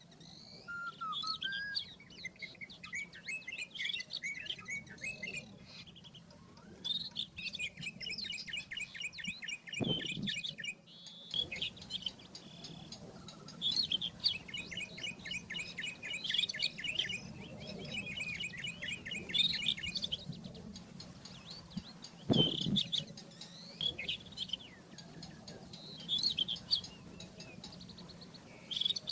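Rufous-tailed scrub robin singing: phrases of a few seconds, several made of rapidly repeated notes, with short pauses between them. There are two brief knocks, about ten seconds in and again about twenty-two seconds in.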